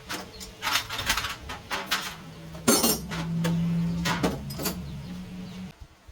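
Metal parts and tools clinking and knocking against each other several times during motorcycle repair work, the loudest clatter about three seconds in. Under it runs a low steady hum that cuts off shortly before the end.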